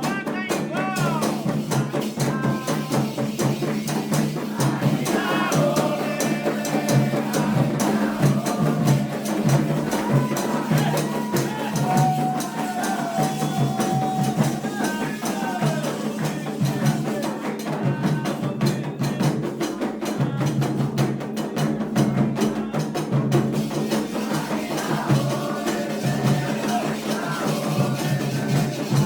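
Candomblé ritual music for Xangô: atabaque hand drums played in a steady, driving rhythm under voices singing a chant.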